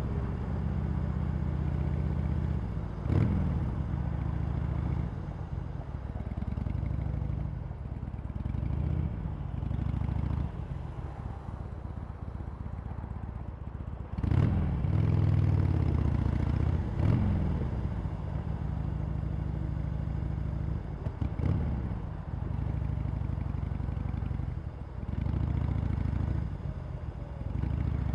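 Harley-Davidson Sportster Iron 883's air-cooled V-twin, running through its stock exhaust while being ridden. The revs rise and fall again and again, with several louder pulls of the throttle.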